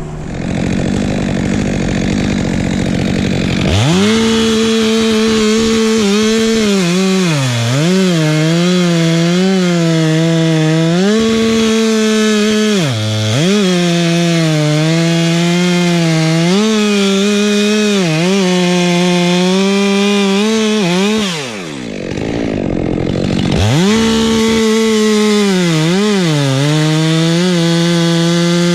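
Chainsaw running at full throttle and cutting wood, its engine pitch dipping several times as the chain loads up in the cut. It revs up a few seconds in, drops off briefly about three quarters of the way through, then revs back up.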